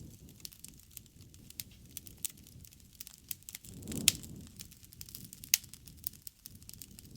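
Campfire burning, crackling with frequent sharp pops. The loudest pops come about four and five and a half seconds in, the first with a brief low rush of flame around it.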